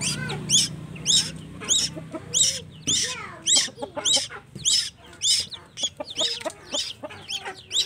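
Tuwu chick making a fast run of short, sharp begging calls, about two a second. The calls are typical of a young bird asking to be fed.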